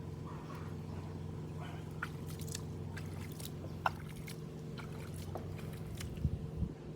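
A steady low mechanical hum with scattered light clicks and taps as the plastic parts of a lawn sprinkler head are handled, with a sharper click a little before halfway and a few knocks near the end.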